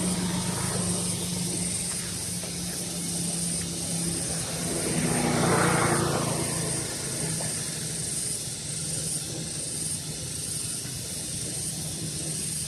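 A steady engine drone that swells and fades as it passes about five seconds in, over a continuous high hiss.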